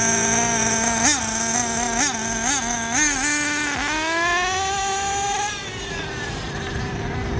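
Small nitro RC car engine idling, blipped up four times in quick succession, then revved and held for a couple of seconds before dropping back to idle.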